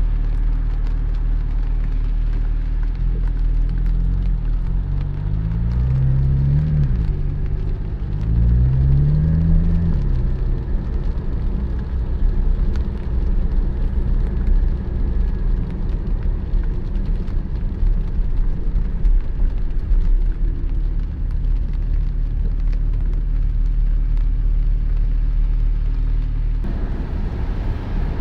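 Porsche 718 Spyder's flat-six engine running on the move, with road noise. Twice, about five and eight seconds in, the revs rise and then drop suddenly, as in upshifts. After that it settles to a steady cruising hum.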